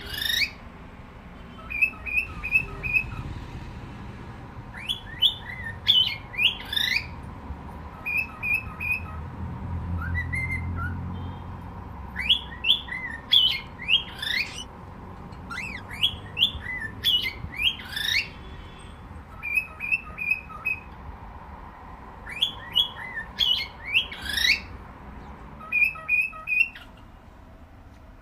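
Cockatiel whistling and chirping: repeated bursts of quick up-and-down whistles, with short runs of three or four clipped chirps between them. A low rumble rises and fades about ten seconds in.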